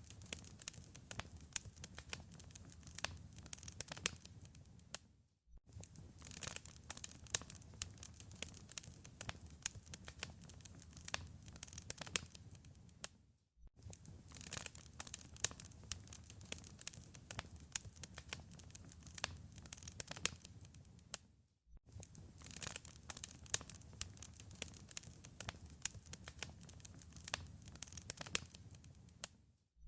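Wood fire in a fireplace crackling: a dense, irregular run of small pops and snaps over a low rumble. The sound drops out briefly about every eight seconds.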